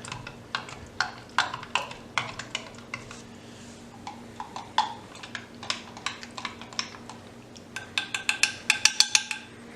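A spoon stirring powdered soup and hot water in a cup, clinking and scraping against the cup irregularly, with a quick run of ringing clinks near the end.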